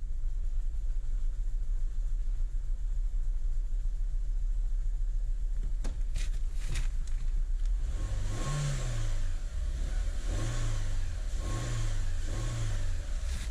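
Renault Megane's 1.6 16-valve petrol engine (K4M) idling steadily, then revved in four short throttle blips over the last five seconds or so, each rising and falling back to idle.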